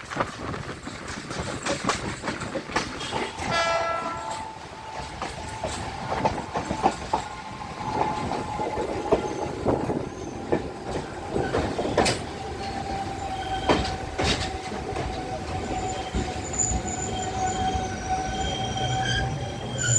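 Sri Lankan passenger train running on the rails, its wheels clicking over the rail joints. A brief horn toot sounds about three and a half seconds in. Right after it a long steady squeal sets in and lasts until near the end, with higher squeals joining in over the last few seconds.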